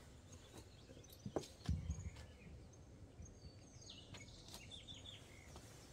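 Birds chirping in short calls, with a few dull knocks and thuds about a second and a half in.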